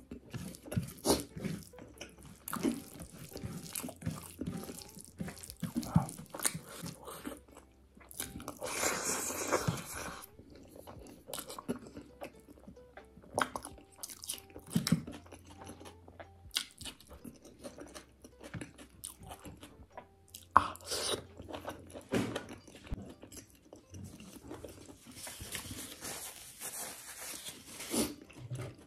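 Close-up eating sounds: a person chewing and crunching mouthfuls of chicken and rice eaten by hand, with many wet smacks and clicks. Two longer hissy stretches come about nine seconds in and near the end.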